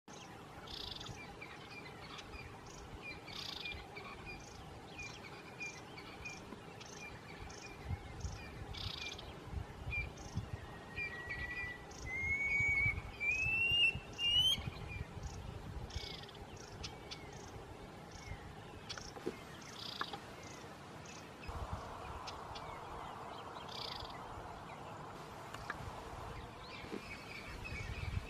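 Birds calling in the open: a short high chirp repeated again and again, and, a little before the middle, a whistle that climbs in steps. Under it are low rumbles that are loudest around the middle, and later a stretch of soft hiss.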